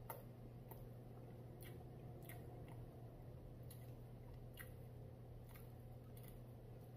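Faint chewing on a bite of fried chicken sandwich: soft, irregular mouth clicks about once a second over a steady low hum.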